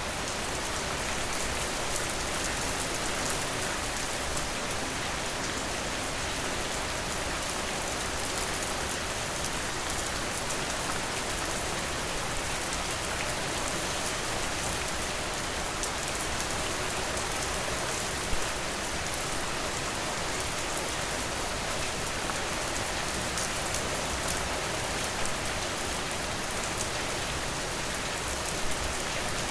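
Steady rain falling and pattering on surfaces, an even hiss with fine dripping detail throughout. A few brief, sharper clicks stand out, one about eighteen seconds in and a couple near the end.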